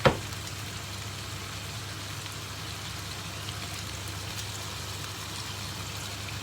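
Chicken pieces sizzling steadily in a frying pan, an even hiss over a constant low hum, with one sharp metallic knock right at the start.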